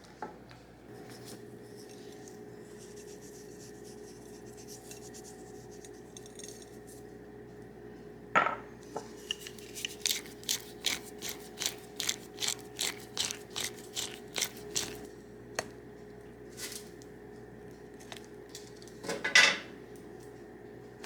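Kitchen utensils and cookware clattering: a sharp knock about eight seconds in, then a run of regular clicks about three a second, and another clatter near the end. A steady low hum runs underneath.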